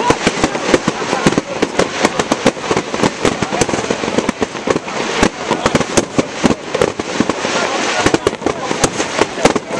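Fireworks crackling: a dense, fast run of sharp pops and cracks over a steady hiss, with a few louder cracks standing out.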